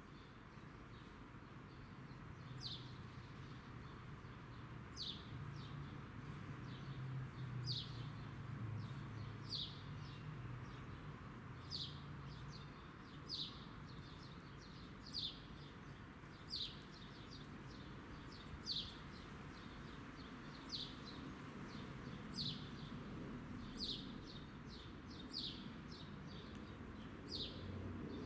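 A bird repeating a short, falling chirp about once every one to two seconds, over a faint low rumble.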